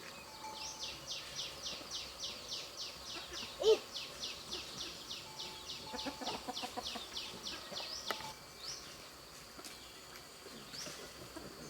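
A bird calling outdoors: a long run of quick, high descending notes, about three or four a second, that goes on for some seven or eight seconds and then stops. A short, louder, lower call sounds about three and a half seconds in.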